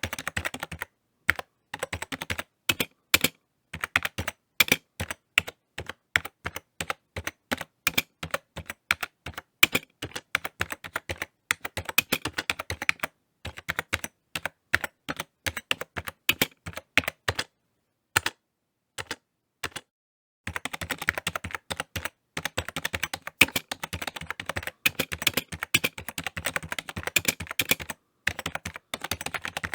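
Typing on a computer keyboard: runs of quick key clicks, broken by short pauses, with a couple of near-silent gaps where only a few isolated keystrokes sound, then a faster, denser flurry of typing in the latter part.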